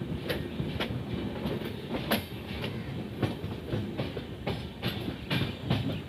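Sikkim Mahananda Express passenger train running on the track: a steady low rumble with sharp wheel clacks about twice a second.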